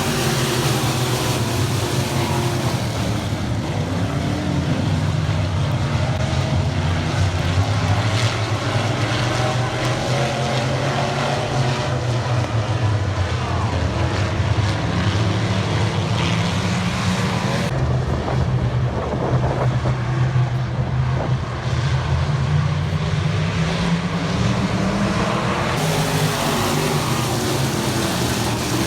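A field of IMCA stock cars' V8 engines running at racing speed: a loud, continuous engine drone whose pitch rises and falls as the cars race.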